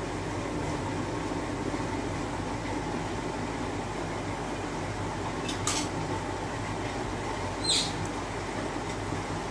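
Omelette batter cooking on a hot iron tawa over the stove: a steady low hum and hiss. A sharp click comes about halfway through, and a brief high squeak near the end.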